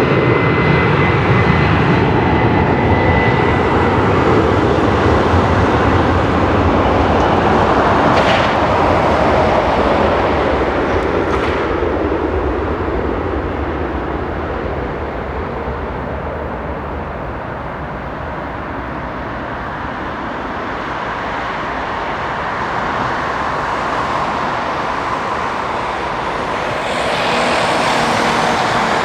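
Jet engines of an Embraer E190 airliner running loud, their noise slowly fading through the middle, then swelling again near the end.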